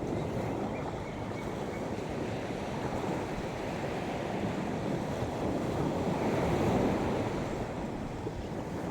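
Sea waves washing onto a beach in a steady surf, with some wind; the surf swells a little about six seconds in.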